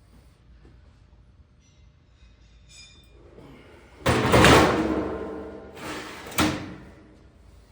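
Heavy steel machine vise scraping and clanking against a cast-iron mill table: a sudden loud metal scrape about four seconds in that rings and fades, then a second sharp clank about two seconds later.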